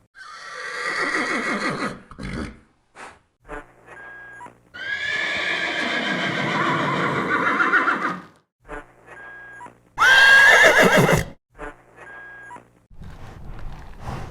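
Horse whinnies, several separate calls one after another: a falling whinny at the start, a long one of about three seconds around the middle, and a loud, shrill one about ten seconds in. Short quieter sounds fall in the gaps between them, and a rougher, noisier sound comes near the end.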